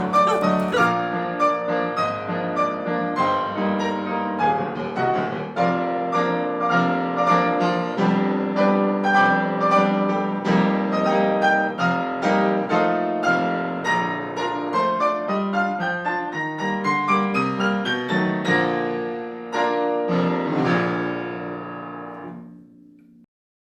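Solo piano background music, a steady run of single notes and chords that fades and stops near the end.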